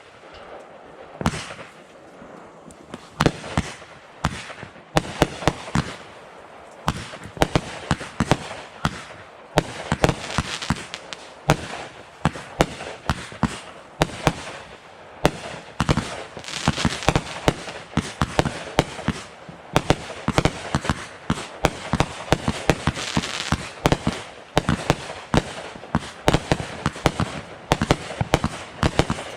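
Fireworks going off: a rapid, irregular string of sharp bangs and crackles, several a second, with a crackling haze between the reports.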